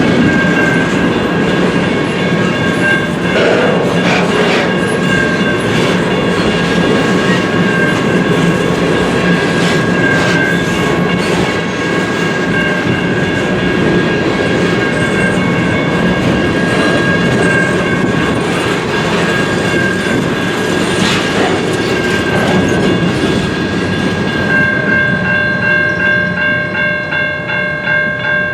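CN freight train's cars rolling past with a steady rumble, wheels clicking over rail joints, and a continuous high-pitched whine running through it. Near the end the rumble eases and the clicking falls into a regular beat.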